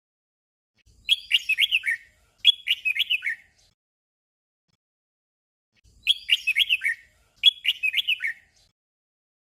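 Red-whiskered bulbul singing a short, clear warbled song phrase twice in quick succession, the doubled song (เบิ้ล) given twice with a few seconds of silence between the pairs.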